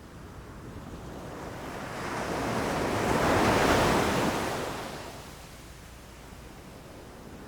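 Ocean waves breaking on a beach: one wave swells, crashes about three to four seconds in, and washes out, then the next begins to build near the end.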